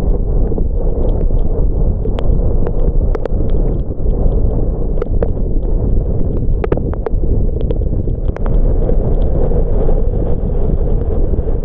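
Car driving on a wet road in the rain: a steady low rumble and hiss of road and tyre noise, dotted with many scattered sharp ticks of raindrops.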